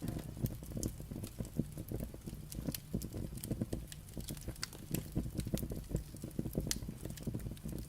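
Firewood fire crackling: many irregular sharp pops and snaps over a low rumble of the burning logs.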